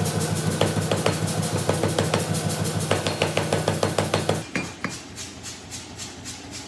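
Hammer blows on hot carbon steel, struck in quick uneven succession over a steady low hum while the knife blank is forged. The hammering stops about four and a half seconds in, leaving a quieter stretch with a couple of light clicks.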